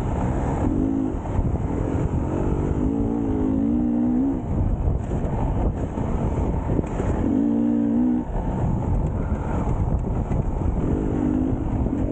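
Enduro motorbike engine revving up and easing off in several spells over a steady low rumble.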